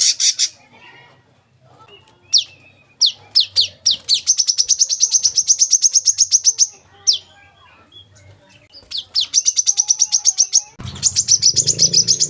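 Brown-throated sunbird (kolibri kelapa) singing: phrases of a few sharp descending notes, each running into a fast high trill of about eleven notes a second, three phrases in all. A low rumble comes in under the last phrase near the end.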